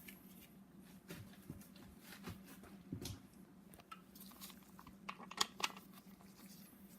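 Faint scattered clicks and knocks of metal hand tools being handled as a torque-angle gauge and wrench are set up on a connecting-rod bolt, with two sharper clicks about five and a half seconds in, over a steady low hum.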